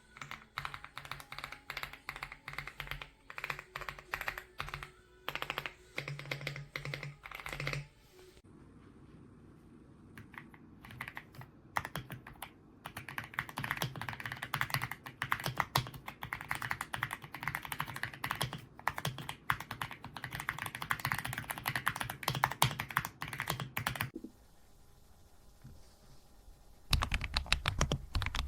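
Typing on an Aula F99 mechanical keyboard: fast, dense key clicks that thin out twice, over background music.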